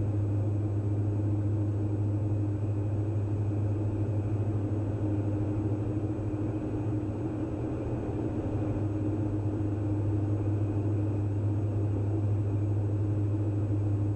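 Steady low drone of a Diamond DA42 NG's twin diesel engines and propellers in cruise, heard inside the cabin, with an even pitch throughout.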